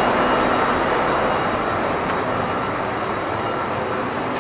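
Steady hum of a Class 800 train standing at the platform, a continuous mechanical noise with a few held tones.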